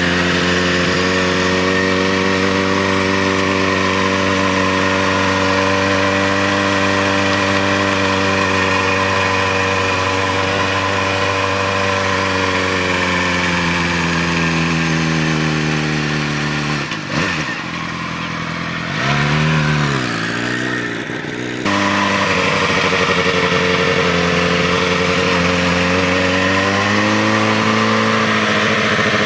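Motorcycle engine running at a steady speed, its pitch sagging slowly, then dipping and rising and falling in a few short revs for several seconds before settling back to a steady run; the sound changes abruptly about three quarters of the way through.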